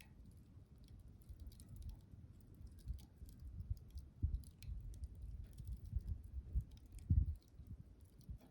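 Wood campfire crackling, with irregular small pops and snaps. Soft low thuds run beneath, the loudest about seven seconds in.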